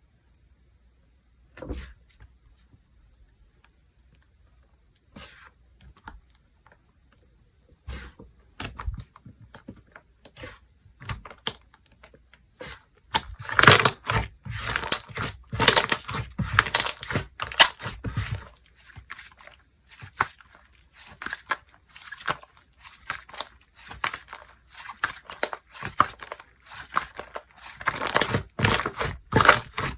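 Slime being played with in the hands: scattered soft clicks at first, then from about halfway on a dense run of crackling and popping.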